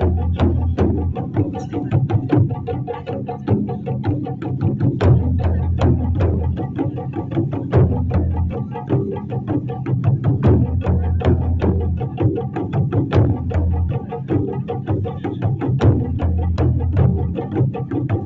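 Taiko drums played in a fast, tightly rhythmic pattern: sharp strikes several times a second over a deep rumble that swells and drops back every few seconds.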